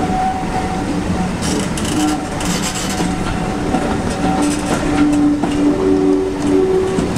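Passenger coaches of a steam-hauled train rolling slowly past, their wheels clattering over the rail joints. Held squealing notes come and go over the rumble.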